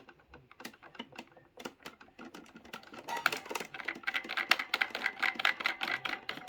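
Plastic electric-fan parts clicking and rattling as a part is fitted and screwed to the right onto the fan's motor housing during reassembly; scattered sharp clicks at first, turning into quick, dense clicking about halfway through.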